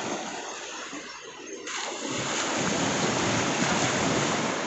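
Sea surf rushing on the shore; the wash dips, then swells up sharply as a wave breaks about a second and a half in.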